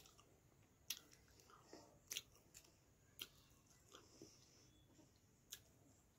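Close-miked mouth sounds of a person chewing a handful of rice and curry: quiet chewing broken by a handful of short, sharp wet smacks and clicks, the loudest about one and two seconds in.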